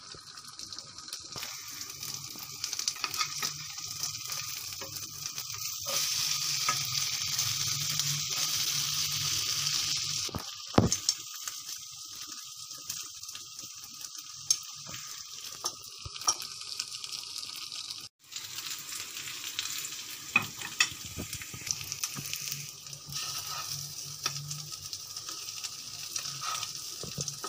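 Egg-and-bread sandwich sizzling in ghee in a nonstick frying pan on low heat: a steady frying hiss that swells for a few seconds in the middle, with a few sharp clicks.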